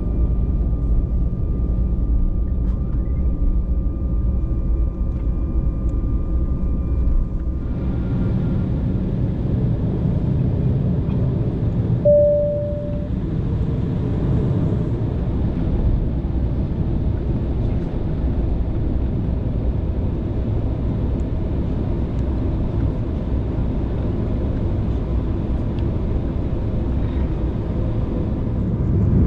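KLM Cityhopper Embraer jet airliner during take-off, engines and airflow heard as a loud, steady rumble. About eight seconds in, the thin whining tones drop away and a wider rushing noise takes over. A short single tone sounds a few seconds after that.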